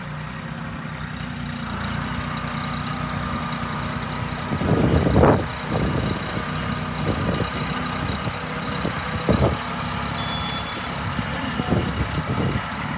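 Tractor engine running steadily, with a louder short burst about five seconds in and a few brief louder spikes near the end.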